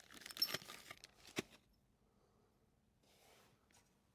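Faint clinks and scrapes of a metal spark plug wrench being handled and tried on the generator's spark plug, with one sharp click about a second and a half in, then near silence.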